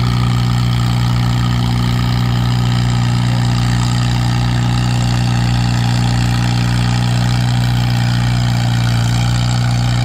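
Tractor engine running at a steady, unchanging low drone, with no rise or fall in pitch.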